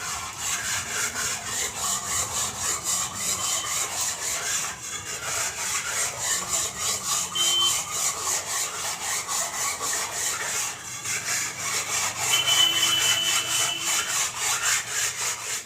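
Rhythmic scraping strokes, about three a second, breaking off briefly twice.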